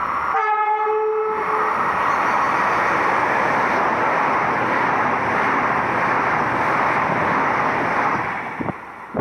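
Frecciarossa high-speed train passing through a station. It sounds its horn once for about a second, just after the start, then runs by with a steady loud rush of wheels and air that dies away near the end.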